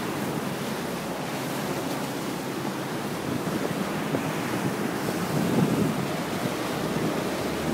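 Wind buffeting the microphone over the rush of water and waves, a steady noise that grows a little louder after the middle.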